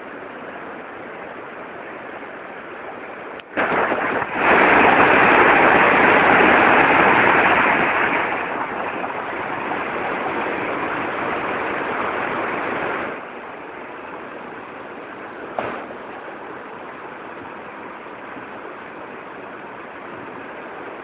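Rushing water, a steady running noise that turns suddenly much louder for about nine seconds in the middle before dropping back, with one short splash-like burst a couple of seconds later.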